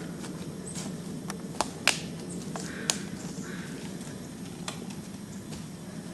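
Scattered crunches and a few sharp snaps of dry leaves and twigs underfoot, over a steady low background noise.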